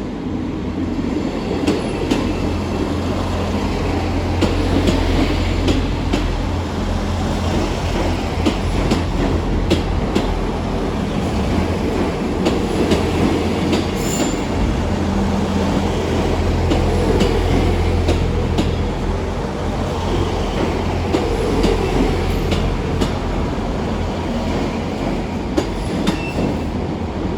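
Two-unit South Western Railway Class 159 diesel multiple unit pulling in to terminate: a steady diesel engine drone under the rumble of the wheels, with scattered clicks from the wheels over the rail joints. There is a brief wheel squeal about halfway through.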